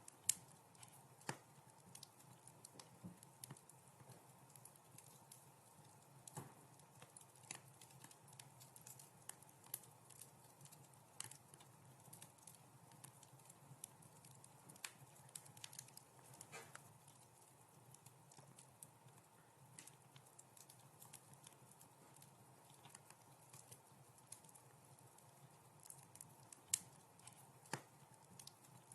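Wood fire in a fireplace crackling softly: irregular sharp pops and snaps over a faint steady hiss. The loudest pops come just after the start and again about two seconds before the end.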